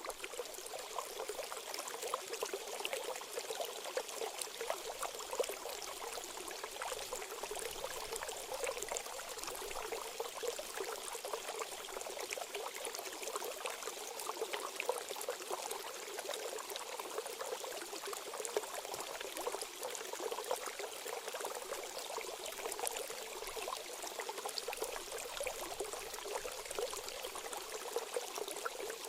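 Running water trickling and splashing steadily, full of small droplet patters: a water-therapy sound played for songbirds.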